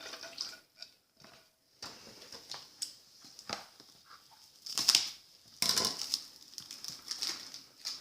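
Plastic wrapping crinkling and crackling as it is handled and pulled off a toy package, in irregular bursts, loudest about five and six seconds in.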